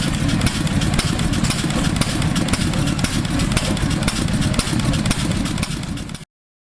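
Antique gasoline engine running steadily with rapid, even firing strokes, cutting off suddenly about six seconds in.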